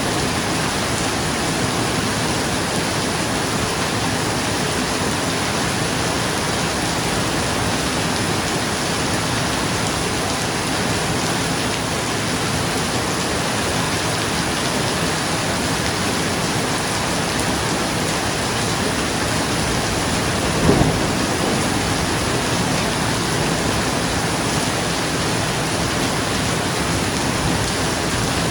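Steady rain falling on a roof, an even hiss with no break. About two-thirds of the way through a brief clap of thunder stands out above the rain.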